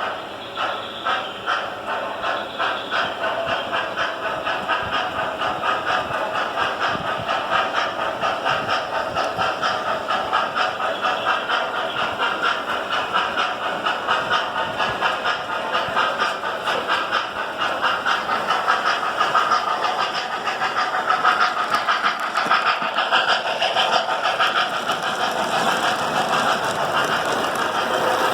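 Model steam locomotive's onboard sound system chuffing steadily, about two chuffs a second, with a hiss.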